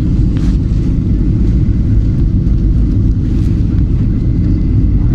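Boeing 737-700 heard from inside the cabin on takeoff: its CFM56-7 jet engines and the airframe make a loud, steady, low rumble with a faint thin whine above it.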